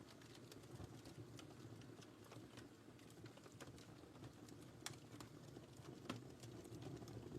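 Wood fire crackling softly in a fireplace: a low, steady flame rustle with scattered small pops and snaps, two sharper pops about five and six seconds in.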